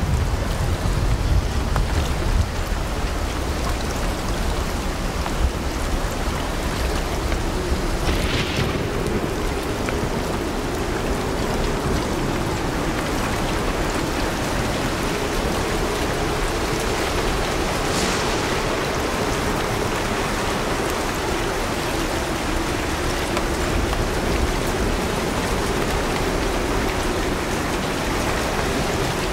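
Steady heavy rain falling, an even hiss without a break. A low rumble dies away in the first couple of seconds, and the hiss swells briefly twice.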